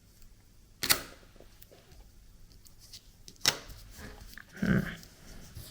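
Desk handling of a 3D-printed plastic washi tape cutter and tape: two sharp clicks about two and a half seconds apart, then a short muffled sound near the end.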